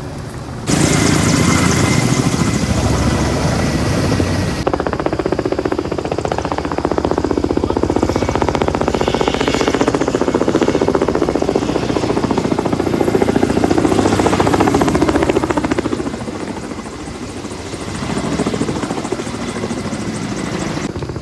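Firefighting helicopter's rotor chopping steadily, loud, with abrupt jumps in the sound about a second in and again at about four and a half seconds.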